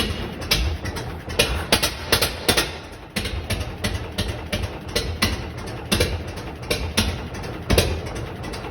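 1926 Lister X stationary engine running slowly, its firing strokes coming as sharp beats about one to two a second, unevenly spaced, over a low rumble.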